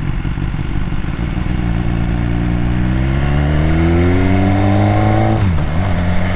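BMW S1000R inline-four engine under acceleration: it runs steadily, climbs in revs for a few seconds, then drops sharply with an upshift near the end. Wind rushes over the helmet microphone throughout.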